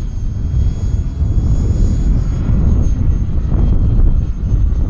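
Gusty wind buffeting the microphone with a heavy low rumble, over the thin, steady high whine of a 50 mm electric ducted fan RC jet in flight, its pitch lifting slightly about two seconds in.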